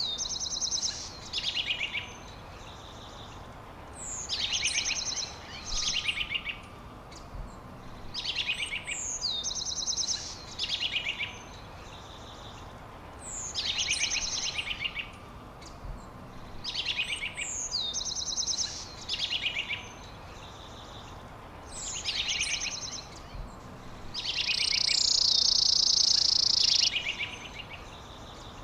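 A songbird singing the same short phrase over and over, about every four seconds: a quick high downward-slurred note followed by rapid trills. Near the end comes a louder, steady buzzing trill lasting about two and a half seconds.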